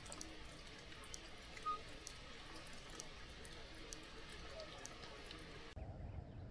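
Faint background hiss with scattered small ticks like dripping water and one brief high chirp about two seconds in. A little before the end it cuts abruptly to a low rumbling background.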